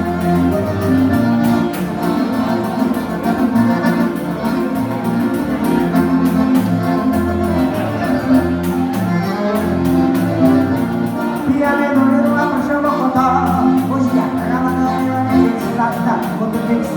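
Live gaúcho dance music played on the gaita (piano accordion) over a regular pulsing bass beat, an instrumental passage without singing.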